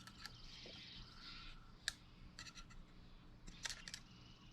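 Faint, scattered light clicks and taps from small parts and tools being handled, over a low steady hum.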